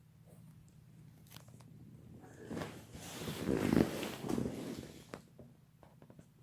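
A burst of rustling, scuffling noise that builds for about a second, peaks near the middle and dies away, with scattered sharp clicks before and after.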